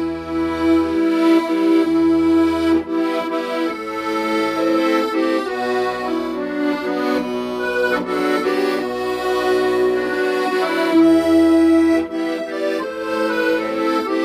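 Accordion playing a slow melody in long held notes, with low bass notes sounding every second or two beneath it.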